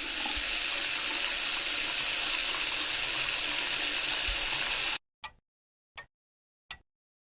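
Water running steadily from a tap, a hissing rush that cuts off abruptly about five seconds in. It is followed by a steady series of short, evenly spaced ticks, about three in the last two seconds.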